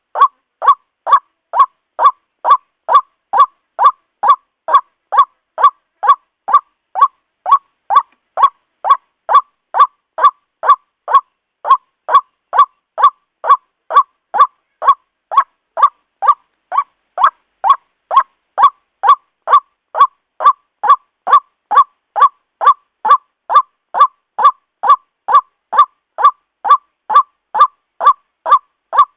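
White-breasted waterhen (ruak-ruak) calls used as a trapping lure: a monotonous run of short, harsh croaking notes at about two a second, evenly spaced and unchanging in pitch.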